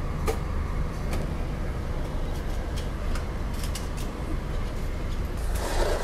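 Ford car's engine idling steadily, with a few faint clicks. Near the end comes a short rustle as the plastic food bag is passed into the car.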